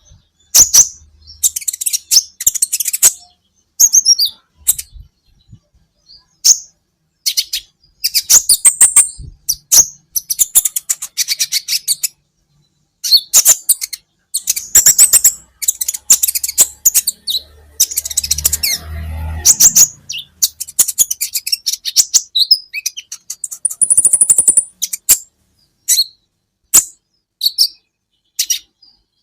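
Kolibri ninja (purple-throated sunbird) chirping and twittering: quick high-pitched notes in dense bursts broken by short pauses.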